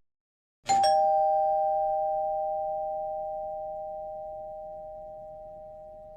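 Two-note doorbell chime: a higher note struck, then a lower one a moment later, both ringing on together and slowly fading.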